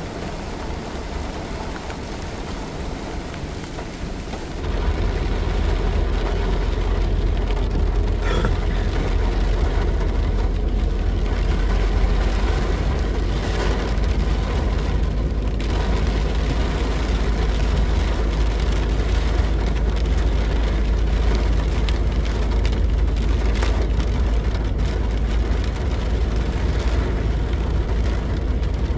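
Rain falling, with a steady low rumble that comes in suddenly about five seconds in and carries on.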